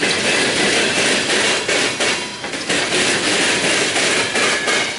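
Freight train of open-top hopper cars rolling past close by: steel wheels on rail make a steady rolling noise, broken by repeated sharp clacks as the wheels cross rail joints.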